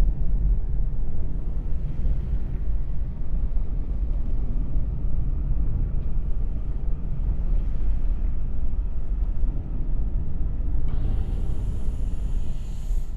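Single-cylinder four-stroke engine with a transparent cylinder head, running with a steady low rumble. A hiss rises over it about eleven seconds in.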